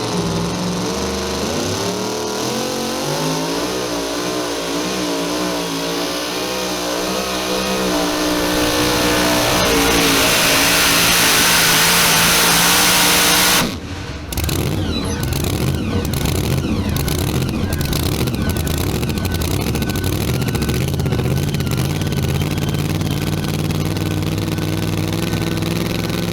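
Supercharged pulling truck's engine at full throttle during a pull, its pitch climbing and wavering up and down, then building into a loud roar that cuts off suddenly about halfway through. After that, an engine runs at a lower, steadier speed.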